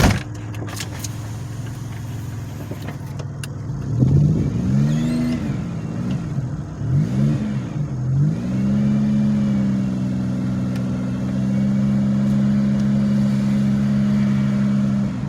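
Pontiac Grand Prix engine pulling away in first gear. Its revs rise and fall several times, then settle into a steady higher drone, as the failing automatic transmission struggles in first gear.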